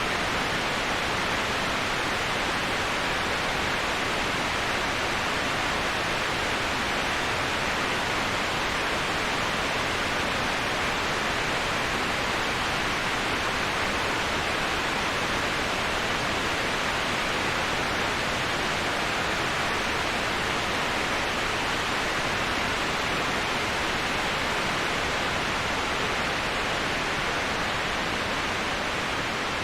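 Waterfall: water falling in a steady, unbroken rush, strongest in the middle and upper range, used as white noise.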